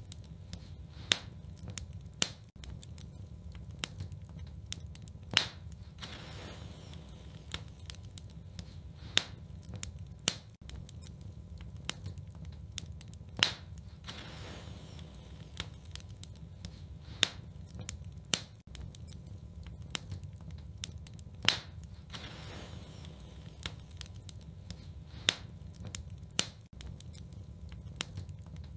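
Wood fire burning in a fireplace: sharp crackles and pops, a louder pop every few seconds, over a low steady rumble of the flames.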